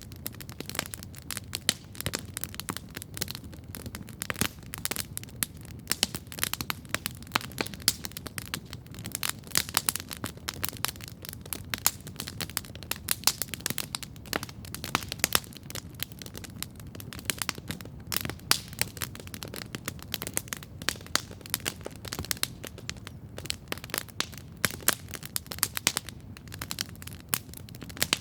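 Wood campfire crackling steadily, with many sharp irregular pops and snaps over a low rumble of burning.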